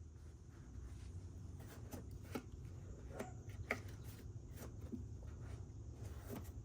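Scattered light clicks and knocks of the air filter cover and parts being handled as the air filter is taken out of a WEN 4800-watt inverter generator, over a faint steady low hum.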